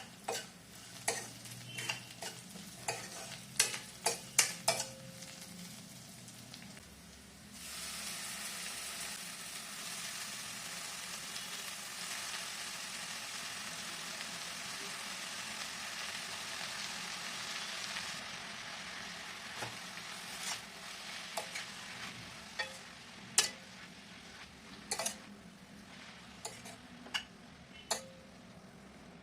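Cooking in a pan: metal utensil clinks and taps for the first few seconds. A steady sizzle of food frying in hot oil then starts suddenly and runs for about ten seconds. Scattered clinks of stirring follow.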